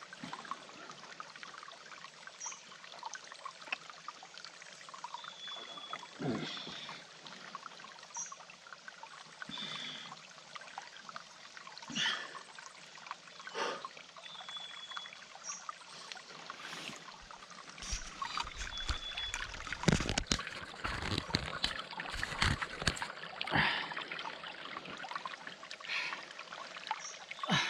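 Water trickling steadily in a small mountain stream, with scattered knocks and rustles that cluster in the second half, and a short high peep recurring every few seconds.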